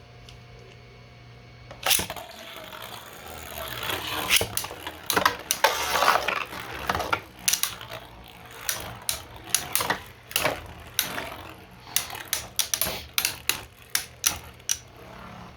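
3D-printed Beyblade spinning tops launched with a sharp snap about two seconds in, then spinning and clashing in a plastic stadium: a rapid, irregular run of clicks and knocks that thins out toward the end.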